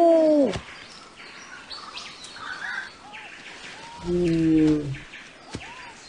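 Birds calling in forest: a loud, long pitched call that ends with a falling note just after the start, small whistled chirps, and a second loud, slightly falling call about four seconds in that lasts about a second.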